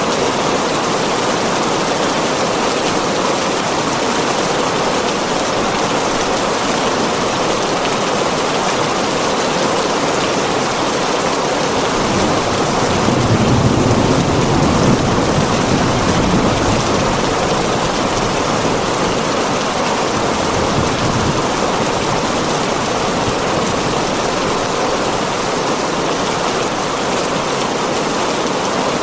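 Heavy rain falling steadily on a tin roof, a dense even patter. About halfway through, a low rumble swells for a few seconds and fades.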